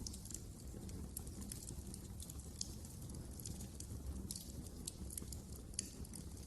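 Wood fire crackling: irregular sharp snaps and pops over a steady low rumble of the flames, with a couple of louder pops.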